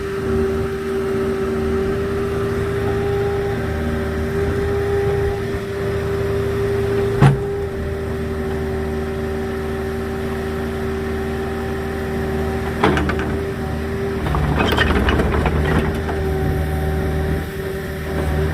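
An engine running steadily at a constant speed, with a sharp knock about seven seconds in, another near thirteen seconds, and a couple of seconds of clattering around fifteen seconds.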